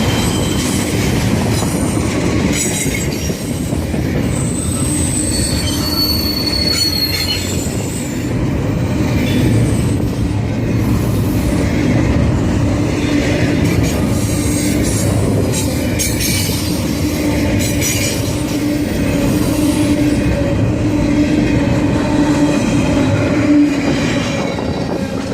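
A train rolling past with a steady heavy rumble of railcars on the track. Several short high-pitched wheel squeals come in the first half.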